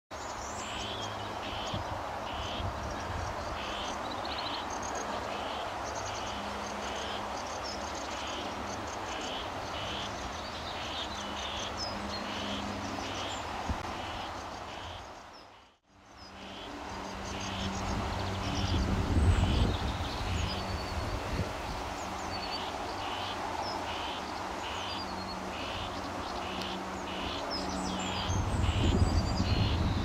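A songbird singing outdoors, one short high note repeated about twice a second, over a steady background of outdoor noise. A low rumble on the microphone comes and goes, and the sound dips out briefly around the middle.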